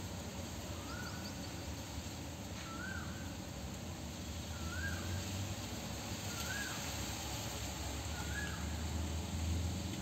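A bird calling a short rising note over and over, about every two seconds, over a steady low hum.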